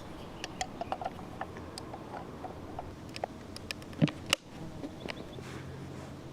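Small hard plastic parts being handled: irregular light clicks and taps, with two louder knocks about four seconds in.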